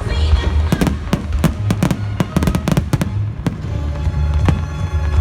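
Fireworks display with a rapid run of sharp bangs and crackles, several a second, over loud accompanying music.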